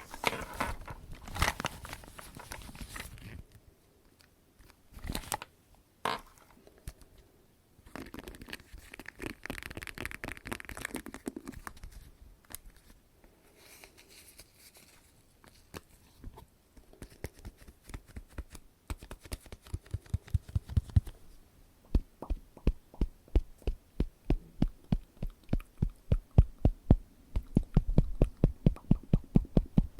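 Close-miked ASMR trigger sounds: crackly handling and a stretch of rustling, then a long run of quick, even tapping about four taps a second that quickens near the end.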